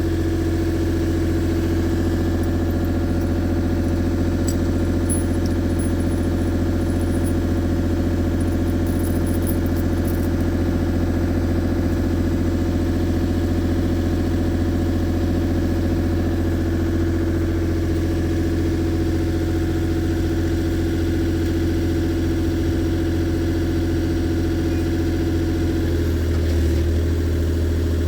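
Engine idling steadily in a low, even tone, settling slightly lower in pitch near the end.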